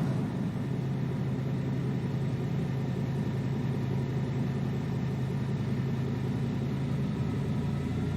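A car engine running steadily: an even, low hum that holds unchanged throughout.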